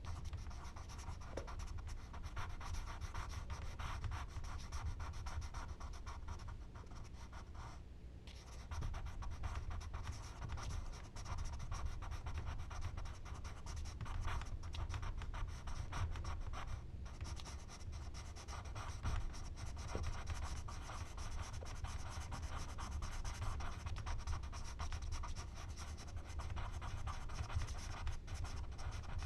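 Charcoal scratching and rubbing on paper in continuous strokes, with a short pause about a quarter of the way in and a brief one near the middle.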